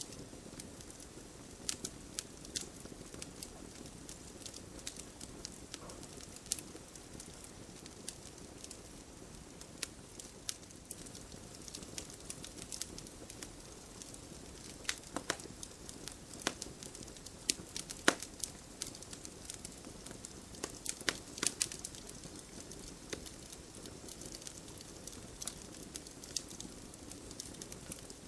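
Wood bonfire crackling: irregular sharp pops and snaps over a low, steady rush of flames, with a few louder snaps in the middle.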